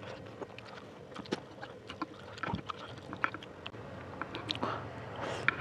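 Close-miked chewing: wet mouth clicks and smacks as a man chews pieces of sausage, in many short irregular ticks.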